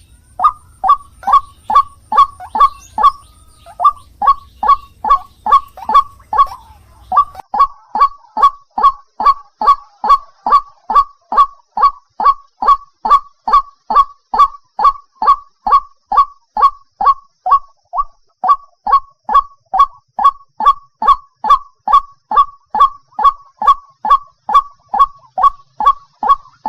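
White-breasted waterhen (ruak-ruak) calling: a long, steady series of loud honking notes, about two a second, each note dropping in pitch. This is the kind of call played as a lure to draw the birds in.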